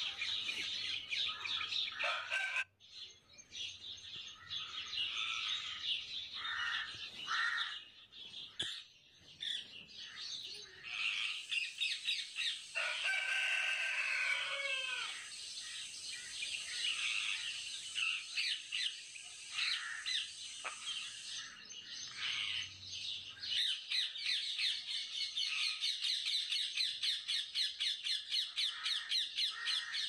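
A chorus of small birds chirping and calling, with a falling squawk-like call about halfway through and a fast, evenly repeated chirping over the last several seconds.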